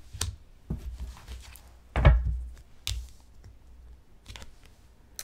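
Tarot cards and deck being handled on a table: a few light taps and clicks, with one heavier thump about two seconds in and another sharp tap about a second later.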